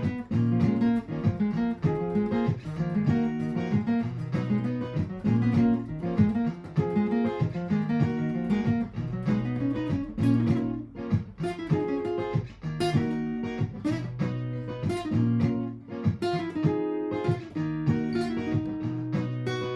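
Martin GPCPA4 acoustic-electric guitar playing an improvised part of quick plucked and strummed notes over repeating looped guitar layers with a steady bass line.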